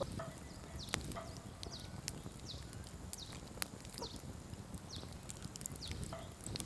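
Wood campfire crackling, with scattered sharp pops over a low rumble of burning. Repeated short, high chirps falling in pitch sound between the pops.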